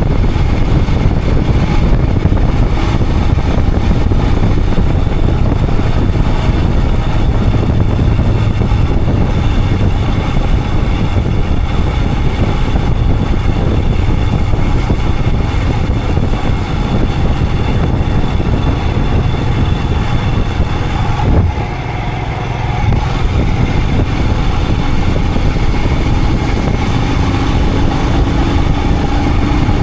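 Royal Enfield Himalayan 411's single-cylinder engine running as the motorcycle rides along, mixed with a steady rushing noise. The level dips briefly about two-thirds of the way through, after a short click.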